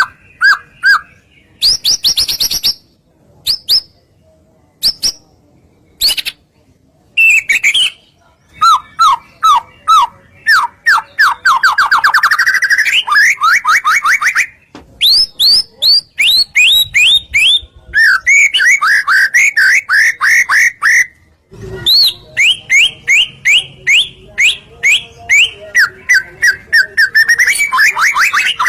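White-rumped shama (murai batu) singing loud, varied phrases: rapid runs of repeated whistled notes and trills, many sliding in pitch, broken by several short pauses.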